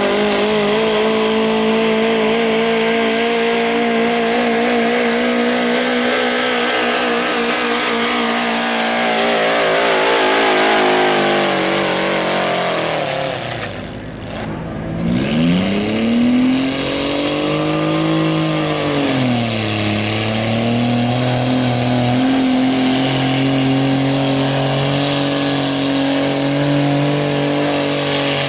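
Modified pulling garden tractor engine running hard at high revs with a wavering pitch, then dropping off sharply about halfway through. It revs up and back down once, then settles to a steady, lower-pitched run.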